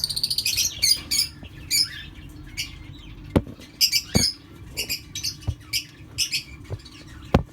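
Small parrots, lovebirds and budgerigars, chirping and squawking in quick high-pitched calls. A few sharp knocks fall in among them; the loudest comes near the end.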